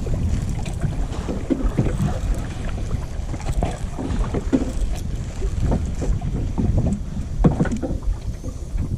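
Wind buffeting the microphone, with the irregular splash and swish of kayak paddle strokes in the water every second or so.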